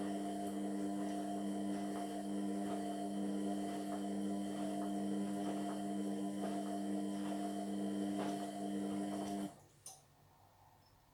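Indesit MyTime washing machine running on a cotton wash with a steady hum and faint regular ticks. The hum cuts off suddenly about nine and a half seconds in, and a single click follows.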